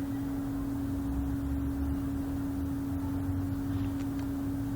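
Steady single-pitched machine hum over a low rumble, the ongoing noise of supermarket equipment that is called a paper shredder.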